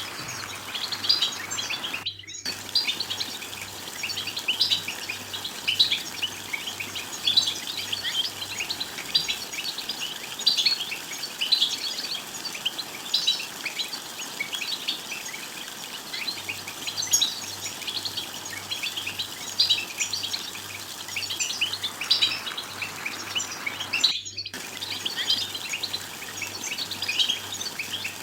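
A group of European goldfinches twittering together in a dense stream of short, high chirps. The sound drops out briefly twice, about two seconds in and again near the end.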